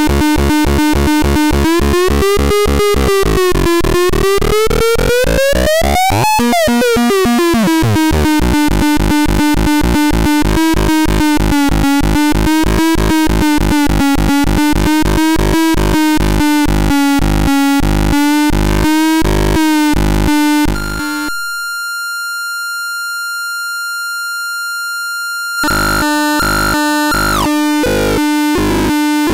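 Homemade CMOS 4093 NAND-gate synthesizer: harsh square-wave oscillator tones chopped into a fast pulsing rhythm, about three pulses a second, with the pitch wobbling and sweeping up, then falling back, early on. Around two-thirds of the way through the pulsing drops out to a single steady high tone for a few seconds, quieter, then the pulsing resumes.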